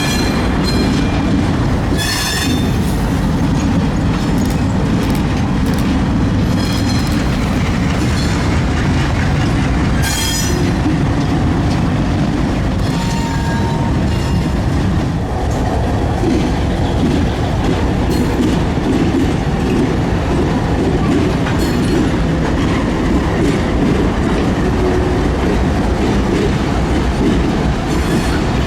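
Diesel locomotives running and rolling along the track, a steady heavy rumble, with brief high wheel squeals about two seconds in and again about ten seconds in.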